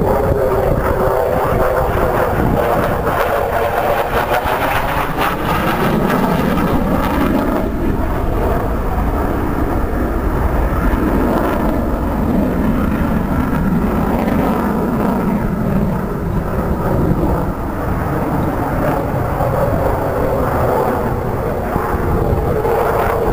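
Jet fighter flying past, a loud continuous jet noise whose tone sweeps slowly down and back up as the aircraft moves across.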